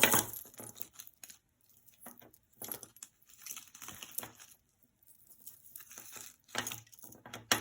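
Hands sorting jewelry: intermittent crinkling and rustling with light clicks of pieces being picked up and moved, loudest near the start and again near the end.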